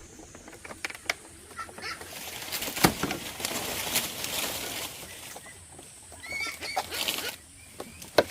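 Birds moving about: a rustling burst like wing flapping a couple of seconds in, scattered clicks and knocks, and a few short chirps near the end.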